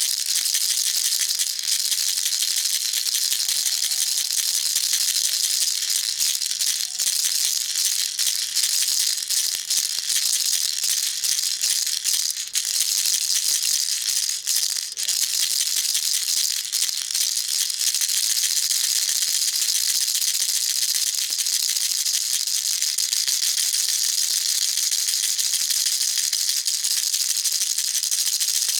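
Baby rattle shaken continuously, its beads rattling in a fast, steady, high-pitched shushing patter, with a few brief lulls.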